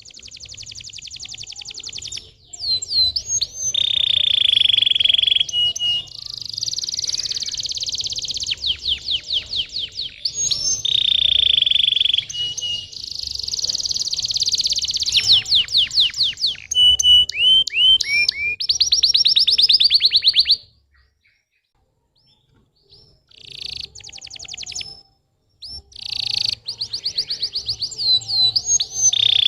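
Domestic canary singing: rapid trills and rolls, fast runs of chirps and sweeping whistled notes. It stops about two-thirds of the way through, falls silent for a couple of seconds, then starts again.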